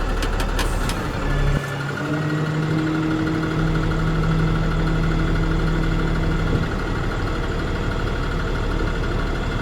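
Cummins 6.7L ISB diesel idling while its PTO-driven hydraulic pump raises the dump body. A few clicks come near the start, then a steady hum comes in about a second and a half in and stops suddenly about two-thirds of the way through, as the hoist's automatic cut-off stops it before the cylinder reaches the top.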